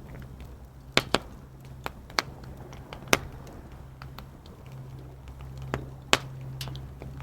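Campfire crackling: burning wood gives a handful of sharp, irregular pops over a steady low background rumble.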